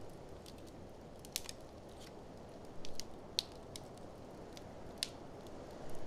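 Wood fire crackling, with irregular sharp pops and snaps scattered through, a few loud ones standing out, over a steady low rushing noise of blizzard wind.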